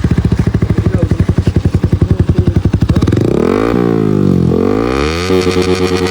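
Yamaha R15 V4's single-cylinder engine through a loud aftermarket exhaust, idling with a fast, even popping beat, then revved up and down several times from about three seconds in.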